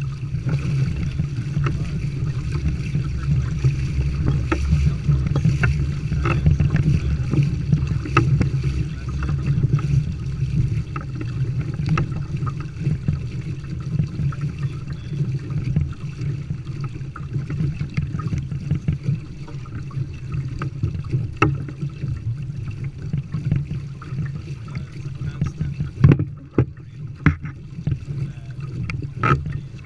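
Sailing kayak under way: water sloshing and splashing against the hull over a steady low rumble, with scattered small splashes and knocks. About three quarters of the way through the rumble drops briefly and a few sharp clicks stand out.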